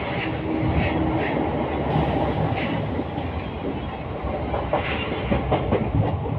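Train rolling along the track with a steady rumble. Its wheels clack over rail joints, in a quick run of clacks near the end.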